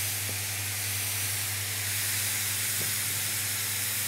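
Finely chopped onion and smoked pancetta sizzling steadily in olive oil in a frying pan, over a steady low hum.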